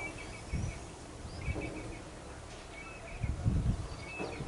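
A bird calling in short clusters of high chirps, repeated every second or so, over irregular low rumbling outdoor noise.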